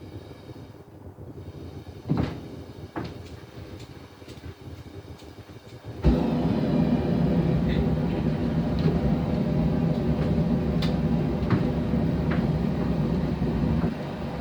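A few knocks, then a blacksmith's forge is fired up. About six seconds in, a loud, steady running noise starts suddenly and carries on: the forge's air or fuel supply running as it begins to heat.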